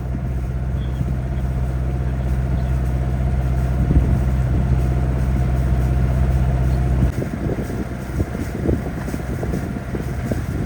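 A sailboat's motor running at a steady cruise, an even low drone; about seven seconds in it stops abruptly, leaving uneven wind noise on the microphone.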